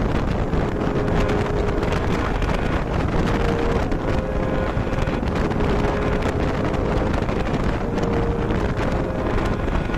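Wind rushing over the microphone of a motorcycle riding at steady highway speed, with the bike's engine and tyre noise underneath and a faint steady engine tone.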